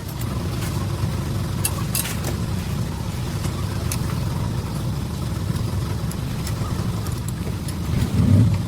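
Steady low mechanical rumble, like a running engine, with a few light clicks in the first two seconds; the rumble swells louder near the end.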